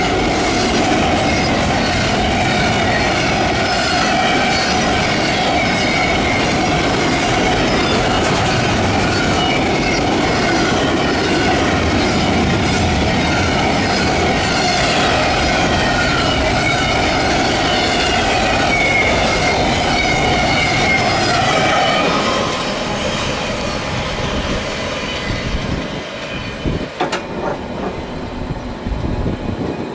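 Double-stack intermodal freight train rolling past: steady wheel-on-rail noise with clickety-clack and a wavering high wheel squeal. About three quarters of the way through, the sound drops off sharply as the last car passes and the train moves away.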